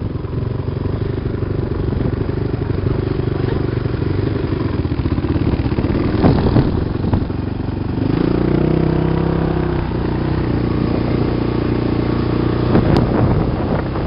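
Off-road vehicle engine running steadily under way on sand, its note rising and growing louder about eight seconds in.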